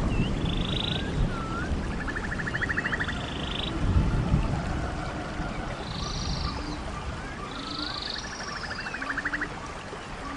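Background nature soundscape of wildlife calls: short chirps, small upward-swooping notes and a rapid trill that comes round again every few seconds, over a steady low rushing noise.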